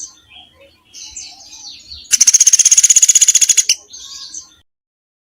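Recorded songbird song: soft, scattered high chirps, then a loud, fast run of repeated high notes of about a dozen a second lasting a second and a half, then a few more chirps. The song stops about a second before the end.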